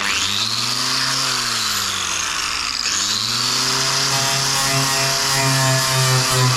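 Power tool fitted with a wire brush starting up and scouring rust off metal: a loud motor whine over a harsh hiss. The motor's pitch sags under load about three seconds in, then picks back up and holds steady.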